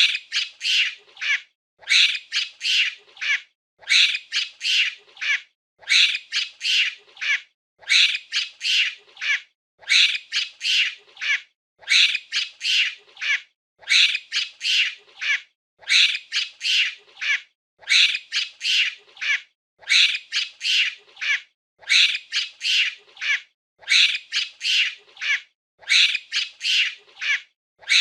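Monkey calls: shrill, high-pitched squawking in quick groups of three or four calls, the same group repeating about every two seconds as a loop.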